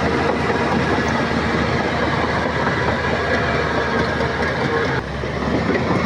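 Shantui crawler bulldozer's diesel engine and steel tracks running steadily, with a clattering noise. The level drops suddenly about five seconds in, then builds back up.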